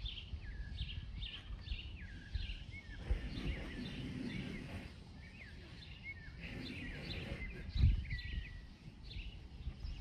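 Small songbirds chirping and calling again and again in short notes and quick whistled glides, over a steady low rumble from the lakeside. A single low thump stands out about eight seconds in.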